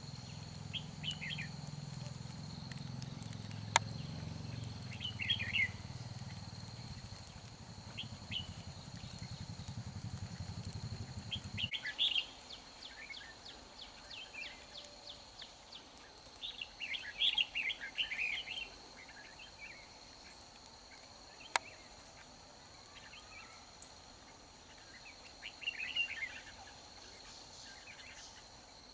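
Red-whiskered bulbuls singing short, warbled phrases again and again, over a steady high hum. A low rumble stops suddenly about twelve seconds in, and there are two sharp clicks.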